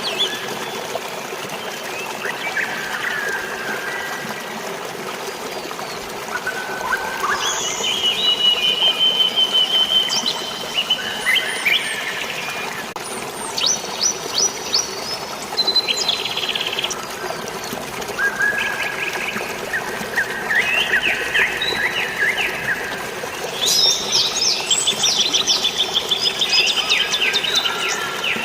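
Several birds chirping and singing in overlapping phrases and quick trills, busiest near the end, over a steady hiss of falling water from drizzling rain and a waterfall.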